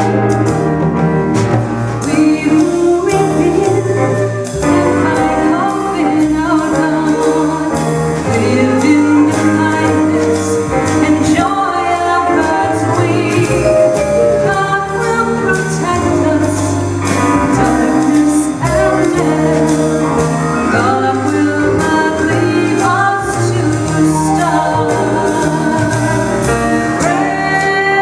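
Live band music: an instrumental trio with a steady beat playing a slow gospel-style song, with a singer.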